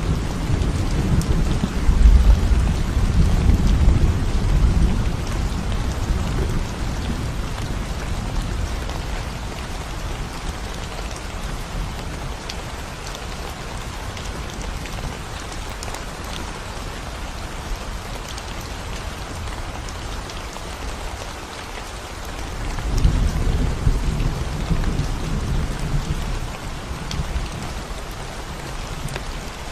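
Steady rain falling on a concrete road, an even hiss of drops. A deep low rumble swells at the start and fades over the first few seconds, then swells again about three-quarters of the way through.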